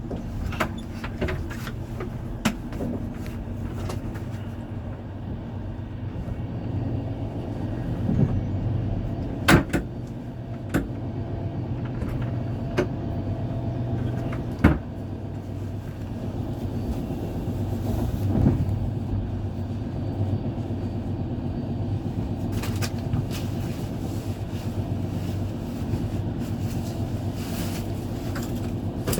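Passenger train running, heard from inside a sleeping car: a steady low rumble with scattered sharp clicks and knocks.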